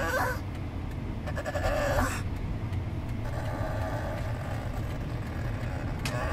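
Pug whining in high, squeaky, dolphin-like calls, several in a row, over the low rumble of a moving car.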